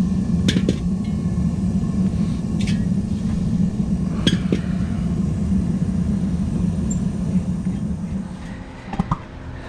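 Propane forge burner running steadily, with a few light metallic clinks; the burner sound drops off near the end.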